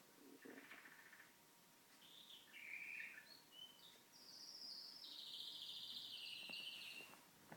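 Domestic canary singing faintly. A short trill comes about half a second in, then varied chirping phrases, then a long high trill from about four seconds in that drops a little in pitch before it stops near the end.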